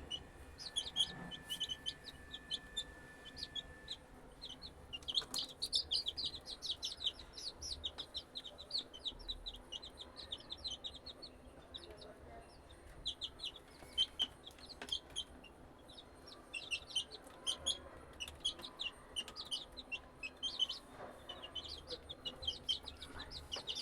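Young chicks, about three weeks old, peeping constantly in rapid, high-pitched cheeps that overlap from several birds.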